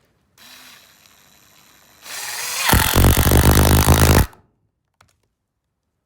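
Cordless drill driving a screw, likely into the door or its hinges: the motor starts softly, speeds up about two seconds in, then runs loudly for about a second and a half and stops.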